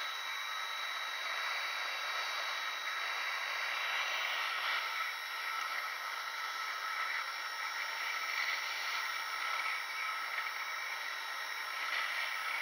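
Hot air gun blowing a steady hiss of air, swelling and easing slightly from moment to moment, with a faint high whine running under it.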